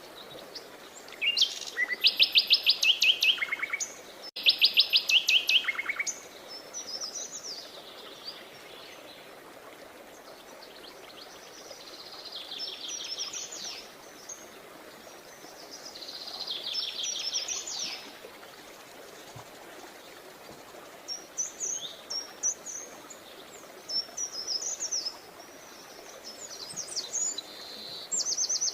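Songbirds singing: two loud, fast trills of rapidly repeated high notes in the first few seconds, softer trills later, then scattered short chirps toward the end, over a steady faint background hiss.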